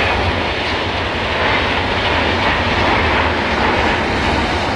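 LHB passenger coaches rolling past close by: a steady, loud rush of wheel and rail noise.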